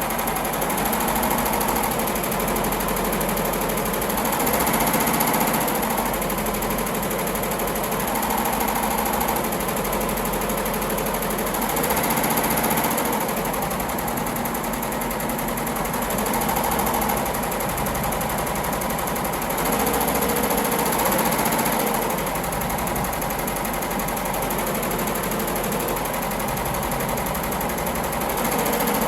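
Yoshiko embroidery machine running and stitching, a steady mechanical chatter of its needle drive that grows a little louder and softer every few seconds.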